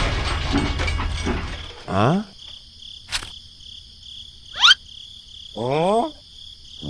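Steady high insect-like chirping, broken by three quick rising whistle-like sweeps and a single sharp click.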